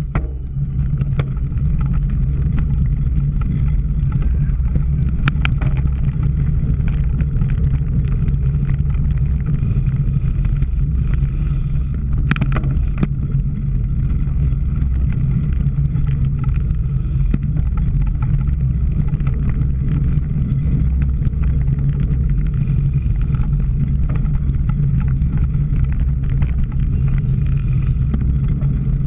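Steady low rumble of a cyclocross bike being ridden, heard as wind and tyre noise on a camera carried on the bike or rider, with a few sharp clicks or knocks.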